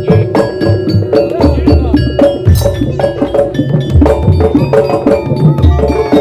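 Daul Madura percussion ensemble playing a fast, dense rhythm through a sound system: low drum hits under ringing metal gong-chime strokes.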